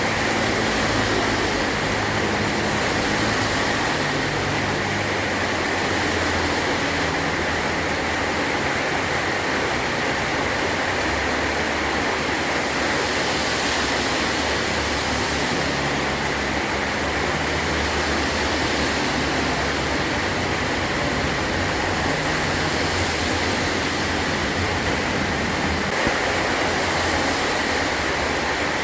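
Heavy rain falling steadily on a metal roof, an even dense hiss.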